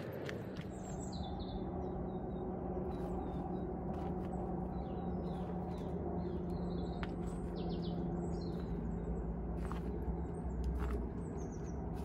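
Small birds chirping, with short high calls repeated throughout, over a steady low drone in the background.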